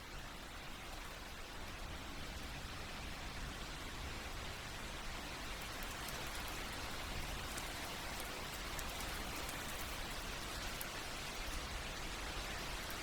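Steady rain falling, an even hiss of drops that swells slightly over the first few seconds, with faint scattered patters of individual drops.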